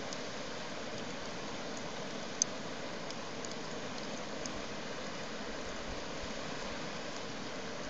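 Campfire burning with a steady rushing hiss and a few sharp crackles and pops, the loudest about two and a half seconds in.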